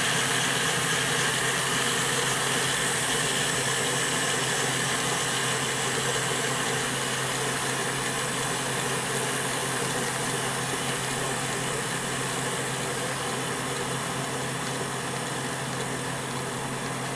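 Hornby model Flying Scotsman locomotive running on a rolling road: its small electric motor and gears whir steadily while the rollers spin under the wheels, with a constant low hum, easing a little quieter towards the end.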